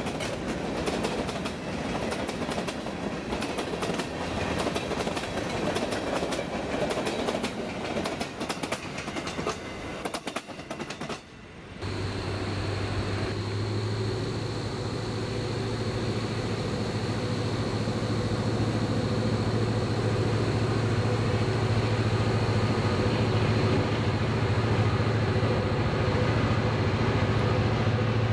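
Freight train of covered hopper cars rolling past close by, the wheels clattering in a steady clickety-clack over rail joints. About twelve seconds in this gives way to a steady low diesel drone from distant approaching locomotives, an EMD SD40-2 and a GE C40-8, slowly growing louder.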